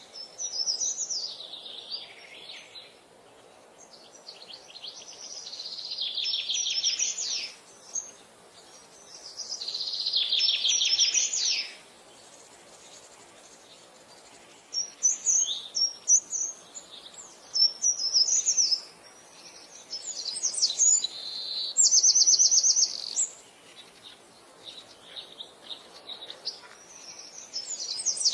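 Songbirds singing: a few long phrases of fast repeated notes that slide down in pitch, then shorter chirps and quick trills, with brief pauses between.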